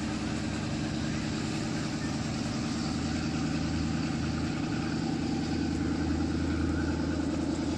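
Passenger train moving away, its diesel locomotive engine running steadily with a low drone and hum, growing slightly louder.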